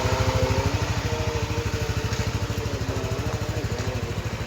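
Yamaha NMAX scooter's single-cylinder engine idling with an even, fast pulse.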